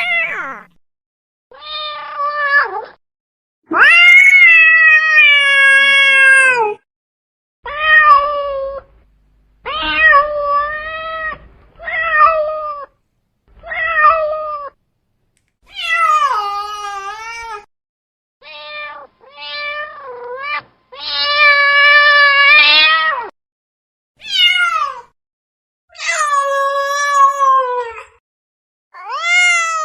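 Domestic cat meowing over and over: about fifteen separate meows, most about a second long, with a few long, drawn-out wailing calls of two to three seconds.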